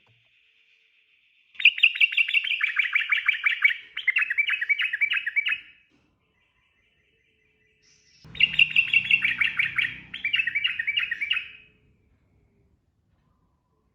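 Sooty-headed bulbul (trucukan) singing its rapid, bubbling 'ropel' song: two bursts of fast repeated notes, each about four seconds long, the second starting about two and a half seconds after the first ends.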